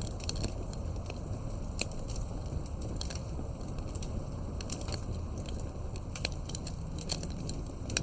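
Campfire crackling: sharp, irregular pops and snaps scattered over a steady low rumble.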